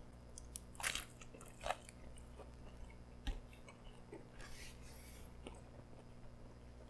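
A bite taken out of a pretzel dog with tomato sauce, then close chewing: a few crackly crunches, the loudest about a second in, followed by softer chewing.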